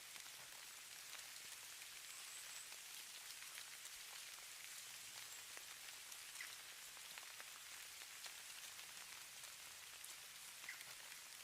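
Falling snow pattering faintly: a steady soft hiss sprinkled with many tiny ticks.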